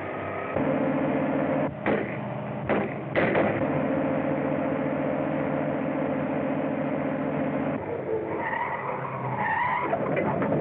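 Motor vehicle running steadily on an old film soundtrack, with a few sharp bangs about two and three seconds in. About eight seconds in the steady running stops and a squealing, like skidding tyres, follows.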